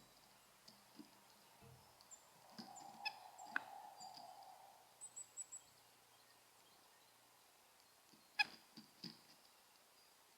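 White-breasted nuthatch giving faint nasal, honking calls, with a few short high chirps. Several sharp taps or clicks come near the end.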